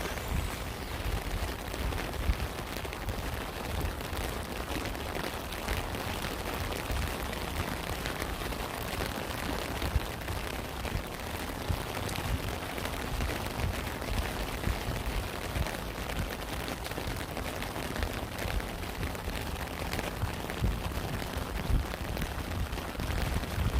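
Steady rain falling, a dense patter of small drop hits over a low rumble, with a few louder drops standing out now and then.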